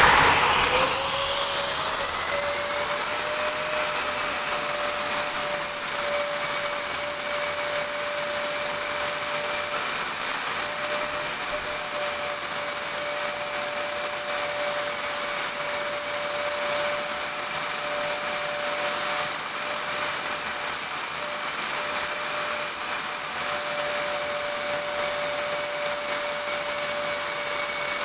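A limited express electric train passing at speed through the tunnel, heard from the underground station's waiting room: a loud, steady rushing noise with a sustained high whistle over it. The pitch falls sharply right at the start as the train goes by, then holds steady.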